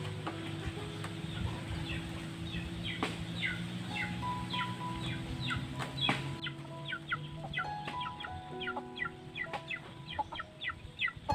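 Many quick high chirps, each falling in pitch, several a second, sounding like birds or chicks peeping. Under them is background music of long held notes that change pitch now and then, over a low hum.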